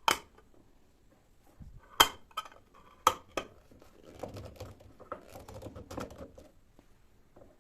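Kitchen handling sounds: four sharp clicks and knocks, then a couple of seconds of soft rustling and light scraping.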